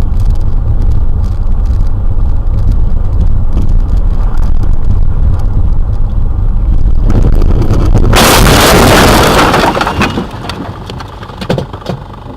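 Dash-camera sound of a car on the road: a loud, steady low rumble of road and wind noise. About eight seconds in, a harsh, very loud crash noise lasts about two seconds, typical of a collision, then the sound drops away.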